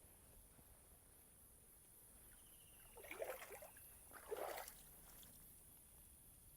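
Faint, steady, high-pitched insect chorus, with two short rustling noises about three and about four and a half seconds in.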